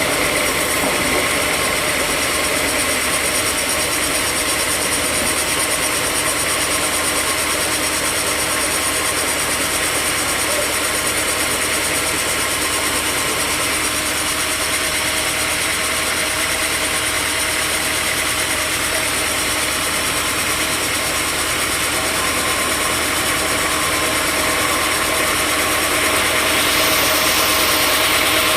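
Sawmill machinery running steadily with a constant mechanical drone and hum; near the end the noise grows louder and brighter.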